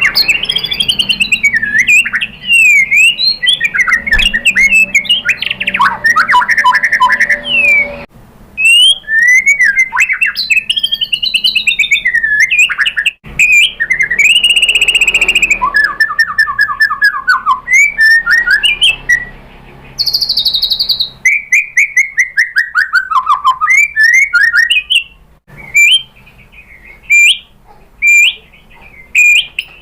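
White-rumped shama singing a fast, varied song of loud whistled phrases, rising and falling glides and rapid trills. Near the end the song breaks into short separate notes about once a second.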